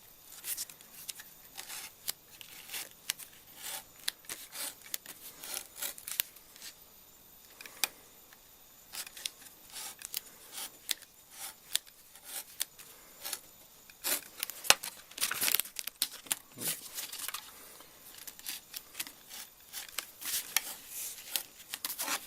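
Razor knife and hands working sandpaper stuck to a steel tape-measure strip: an irregular run of short, scratchy scraping and crinkling sounds as the paper is pressed down and sliced off along the strip's edge.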